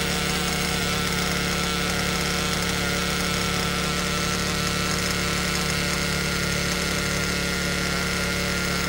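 Werks B5 nitro RC engine idling steadily and rich on its first tank of break-in, with no throttle given.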